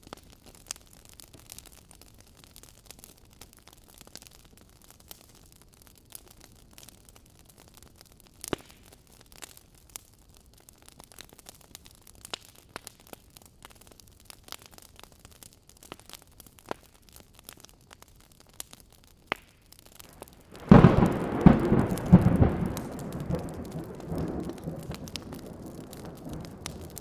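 A wood fire crackling with scattered sharp pops. About 21 seconds in, a loud clap of thunder breaks and rumbles on, slowly fading.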